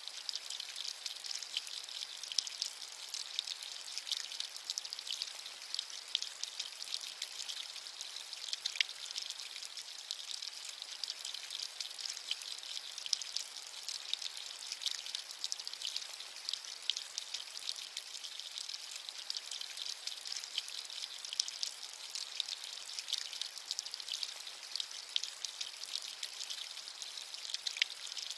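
Steady rain: a dense patter of raindrops with a hiss that sits high in pitch, unchanging throughout.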